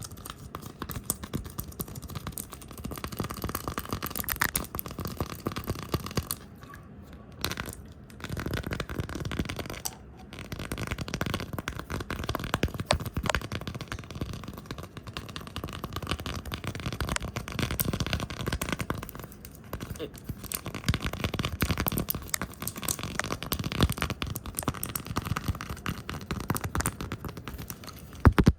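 Fast, aggressive close-up ASMR brushing, scratching and tapping right at the microphone, a dense run of crackly rustles and small clicks with brief pauses about seven and ten seconds in.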